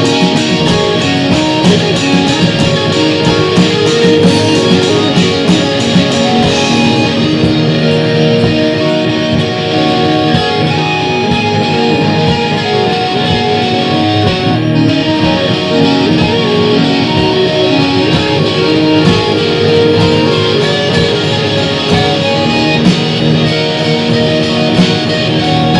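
Live instrumental jam of electric guitar, drums and synth playing continuously in a dense, noisy ambient style, with the guitar out front.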